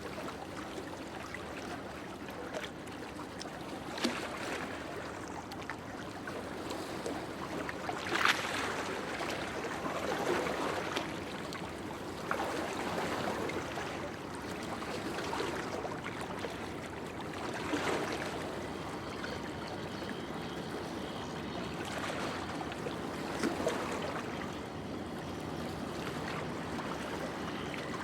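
Sea surf washing on the shore: a continuous rush of water that swells and eases every few seconds, with a few short sharper peaks, the strongest about eight seconds in.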